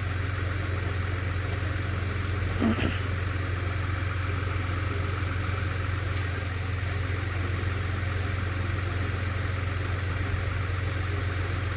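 Diesel engine of heavy earthmoving equipment idling with a steady, unchanging low hum.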